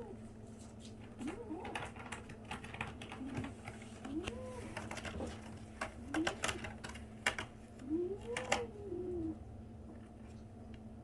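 A 37-day-old kitten giving about five short mewing calls that rise and fall in pitch, the longest near the end, among quick sharp clicks and taps. A steady low hum runs underneath.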